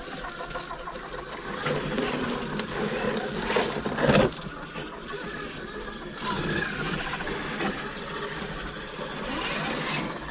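Electric motor and drivetrain of a scale RC rock-crawler truck whining as it is driven over rock, rising and falling with the throttle. About four seconds in there is one loud sharp knock or clatter.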